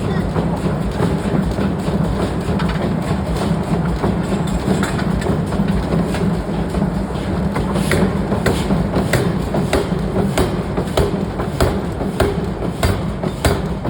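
Heavy forging-shop machinery running with a steady low hum. About halfway through, a run of regular sharp knocks starts, a few a second.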